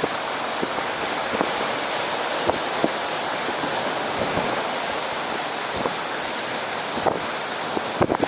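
Lake Huron surf washing onto the beach in strong wind: a steady rushing of waves, with a few brief thumps of wind buffeting the microphone.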